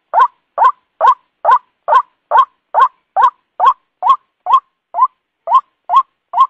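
White-breasted waterhen call, a steady series of short rising notes repeated a little over twice a second, as used in a lure recording.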